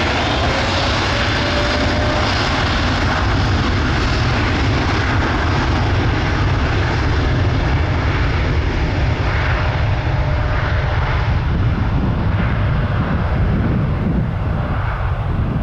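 Boeing 787-10 airliner's jet engines at takeoff power: a loud, steady roar with a heavy low rumble. The higher hiss dies away near the end as the aircraft moves off.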